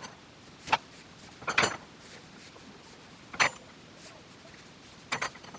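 Four short clinks and knocks of hard objects, spaced a second or two apart, over a faint steady hiss.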